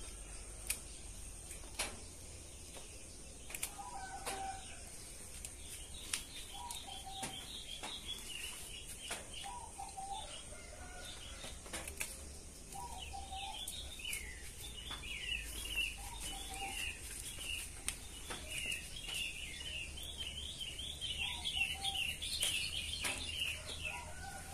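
Small birds chirping in quick runs of high chirps that grow busier toward the end, with a lower short call repeating every couple of seconds and scattered sharp clicks.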